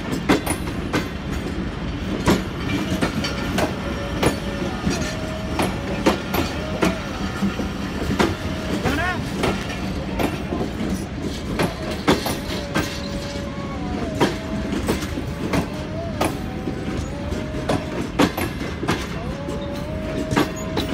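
Pakistan Railways passenger coaches rolling past as the train arrives, wheels clicking irregularly over rail joints over a steady rumble. A squeal comes and goes throughout.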